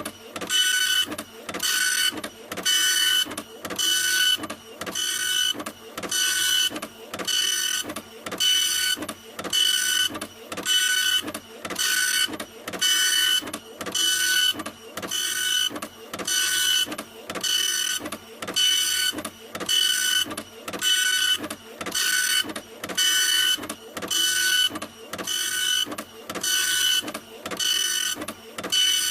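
Printer running continuously, its mechanism passing back and forth in an even, repeating rhythm with a steady whining motor tone.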